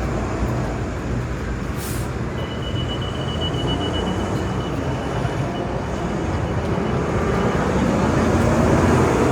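Steady low rumble of vehicle noise on a city street, swelling near the end, with a brief hiss about two seconds in and a thin high whine lasting several seconds after it.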